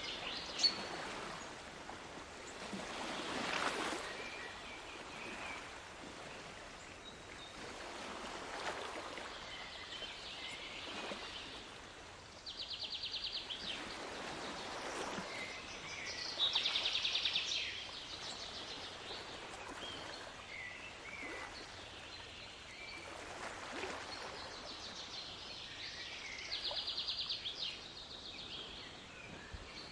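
Waves washing in and drawing back in slow swells every few seconds, with songbirds chirping over them and three short, fast trills, about a third, halfway and nine-tenths of the way through.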